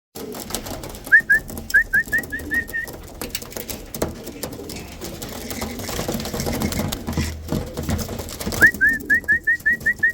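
Tippler pigeons in a loft: low cooing with scattered clicks. Twice, a quick run of short rising whistle-like chirps comes about four a second, once about a second in and again near the end.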